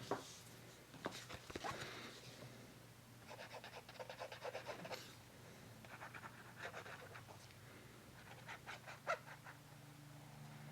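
Glue being applied to paper by hand: several short runs of quick rubbing strokes, about seven a second, over a faint steady hum.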